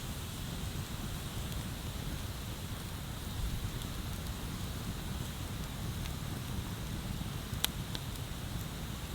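Wood bonfire burning with a few sharp crackles and pops, two of them close together near the end, over a steady low rushing noise.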